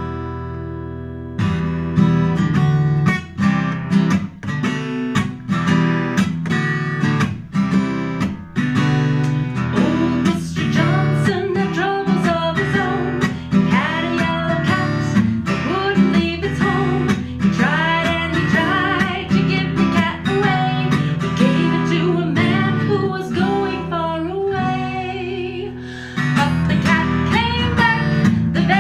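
Strummed acoustic guitar playing a folk-song accompaniment, with a higher melody line joining in about ten seconds in.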